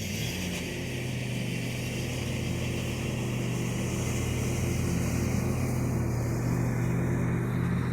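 John Deere L100 lawn tractor engine running steadily, with a brief rise in pitch near the start.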